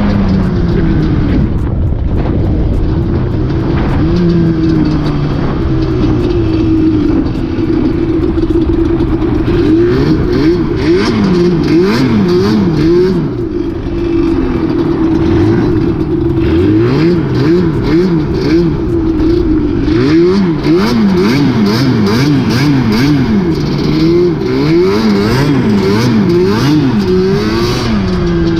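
Nissan 350Z's V6 engine, running steadily at first, then revved repeatedly in quick blips, its pitch swinging up and down about once a second through the second half.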